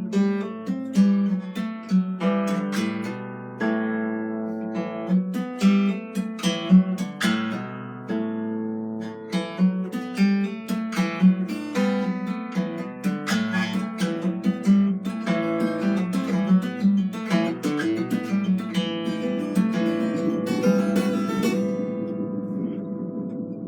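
Plucked string instrument played solo: a flowing run of picked notes and strummed chords, each ringing and dying away. Over the last few seconds the notes run together into a fast, even flutter.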